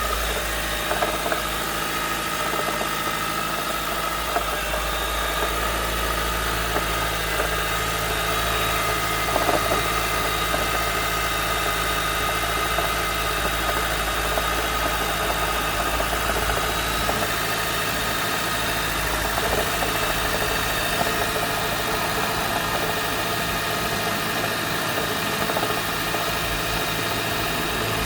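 Honda CR-V Mk5 Hybrid's petrol engine running steadily after a cold start, with a knocking, rattling noise; the owner does not know its cause.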